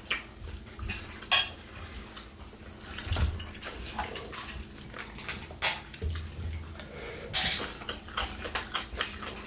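Cutlery clinking and scraping against dishes during a meal, with scattered small clicks and two sharper clinks, one just over a second in and one a little past the middle.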